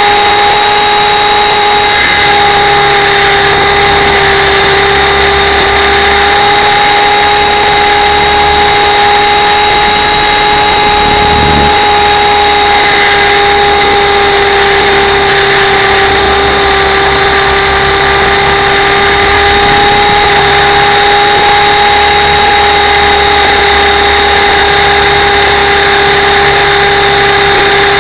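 Radio-controlled camera helicopter's motor and rotors running steadily, picked up very loud by the onboard camera: a constant high-pitched whine with overtones over a hiss.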